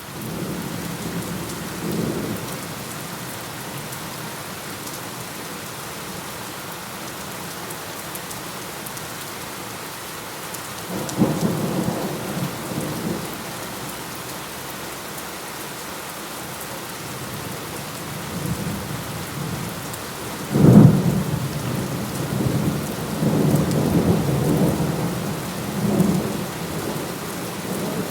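Steady rain with thunder. A low thunder rumble comes about eleven seconds in, and about twenty seconds in a sharper, louder clap breaks and rolls on in rumbles for several seconds.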